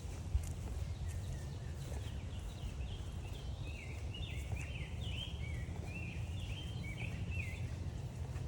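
A songbird sings a run of rapidly repeated, slurred whistled phrases for about five seconds, starting about two seconds in, over a steady low rumble.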